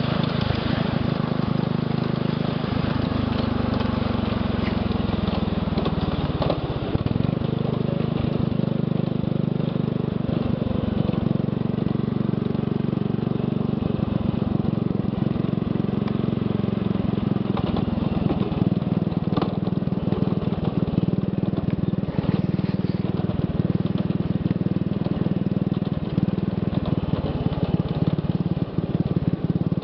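Small engine of a ride-on scale switcher locomotive running steadily under way. Its note falls over a few seconds starting about two seconds in, then holds level, with scattered light clicks.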